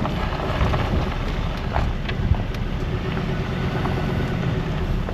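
A car's engine and tyres running on the road, a steady low rumble with a few faint ticks and knocks.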